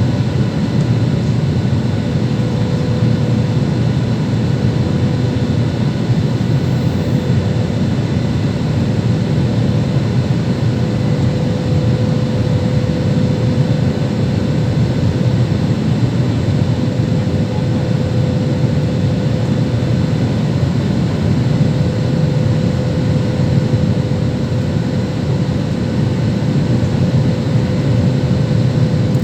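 Steady cabin noise inside a Boeing jet airliner in flight: an even, dense low rumble of the engines and rushing air, with a faint steady hum over it.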